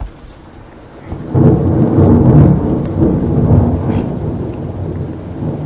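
Loud, rough crackling rumble of a plastic bottle being handled and worked close to the microphone while a spoon is pushed into slits cut in it. It starts suddenly about a second in and carries on.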